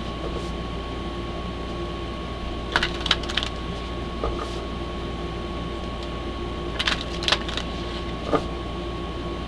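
A steady mechanical hum with a thin whine, broken by two quick clusters of light clicks and taps, about three seconds in and again about seven seconds in, and a single tap near the end.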